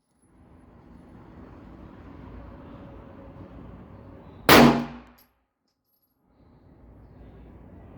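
A single Glock pistol shot fired from a Fab Defense Roni carbine conversion kit, sharp and loud, about four and a half seconds in, with a short ringing tail. A faint steady hiss comes before it.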